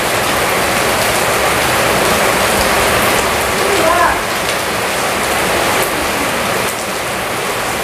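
Steady heavy rain falling on a concrete courtyard, mixed with water spraying from a garden hose.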